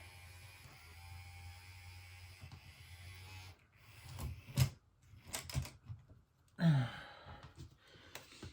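A model railway locomotive's small electric motor running with a steady low hum and a faint whine. It cuts off about three and a half seconds in and is followed by several light knocks and clicks, and near the end by a brief grunt from the person handling the trains.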